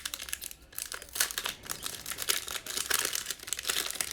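A trading card pack's foil-plastic wrapper crinkling and tearing as it is opened by hand, in dense irregular crackles.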